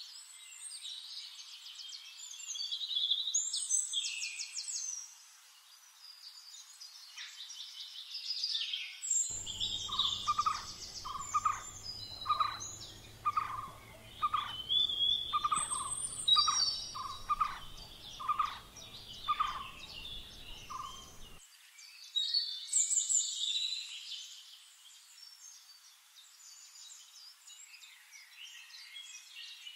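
Songbirds chirping and trilling in a morning ambience. From about a third of the way in, one bird repeats a single mid-pitched note a little more than once a second for around twelve seconds.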